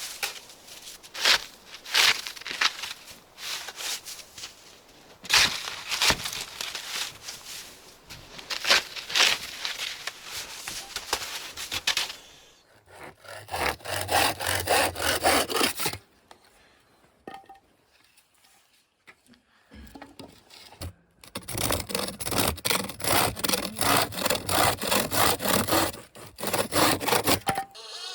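Wood being sawn by hand, with strokes of the saw rasping through the wood. The strokes pause for a few seconds about two-thirds of the way in, then come back faster and closer together.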